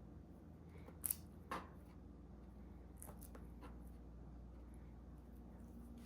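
A few short, faint clicks and taps, two about a second in and two more about three seconds in, over a low steady hum.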